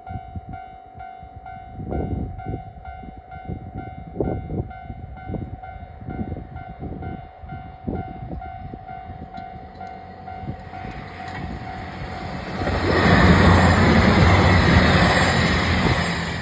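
A level-crossing warning bell rings in steady, evenly repeated dings. About thirteen seconds in, a four-car KiHa 283 series diesel express train passes loudly with a rush of diesel engines and wheels. The rush fades near the end.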